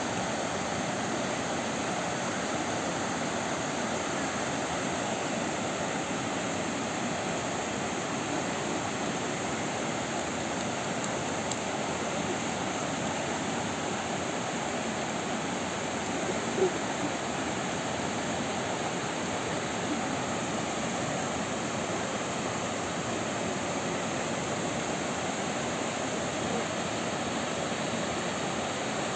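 Youghiogheny River rushing steadily over rapids, an even unbroken roar of flowing water with one brief click about halfway through.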